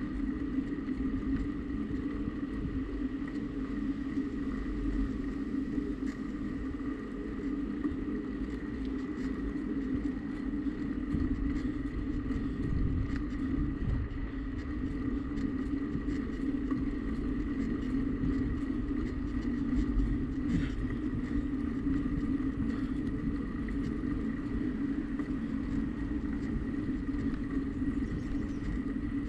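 Steady rolling noise of a bicycle being ridden on pavement, with tyre hum and wind rumble on the microphone and a faint steady high whine.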